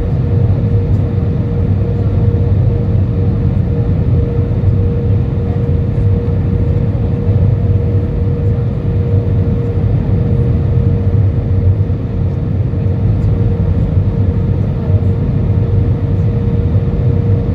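Steady cabin noise inside an Airbus A320 beside the wing: the low rush of the engines and airflow, with a steady hum tone above it.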